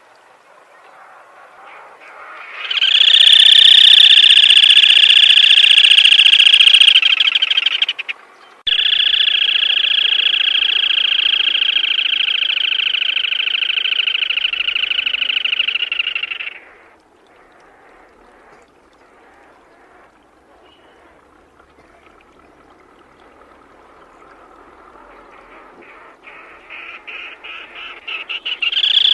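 Black-tailed crake calling: a loud, high, rapid trill given in two long bouts, the first about four seconds and the second about eight, then a fainter trill building up again near the end.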